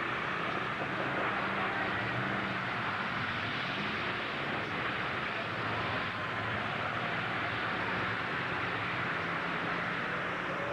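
Demolition derby trucks' engines running, a low steady drone under an even wash of noise.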